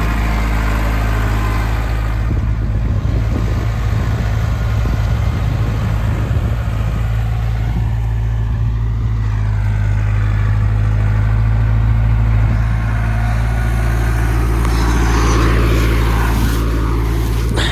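Tractor diesel engine running at steady revs throughout, with a faint whine that rises and falls about halfway through and again near the end.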